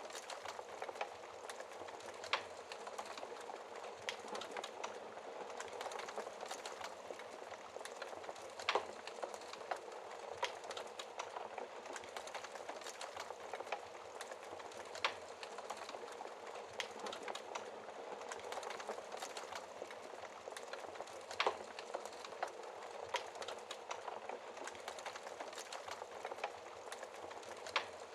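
Wood fire of burning logs crackling: a steady soft hiss thick with small crackles, with a sharper pop about every six seconds.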